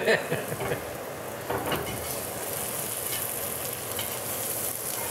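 Smashed potatoes frying in butter in a cast iron skillet, a steady sizzle with a few faint clicks.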